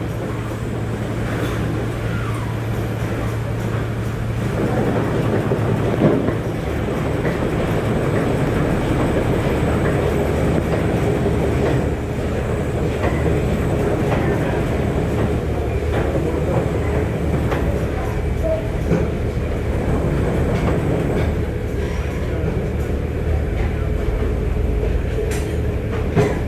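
Penn oscillating paddle-steamer engine running steadily.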